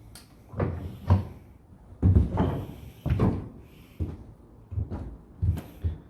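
An irregular series of about ten wooden knocks and thuds, some heavier with a short rumble after them.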